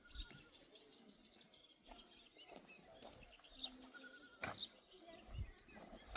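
Quiet outdoor scene with faint, sparse goat bleats and small high chirps, and a sharp click about four and a half seconds in.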